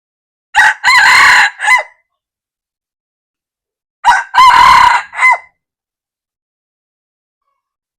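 Red junglefowl cock crowing twice, each crow a short clipped phrase of about a second and a half, the two about three and a half seconds apart.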